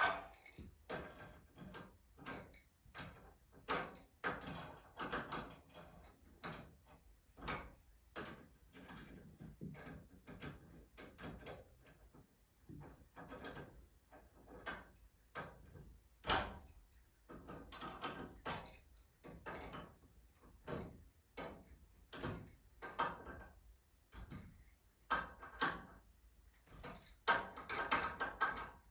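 Irregular clicks, taps and knocks, about one or two a second, from hand tools and metal hardware being worked on a garage door torsion spring setup, with a louder knock about halfway through.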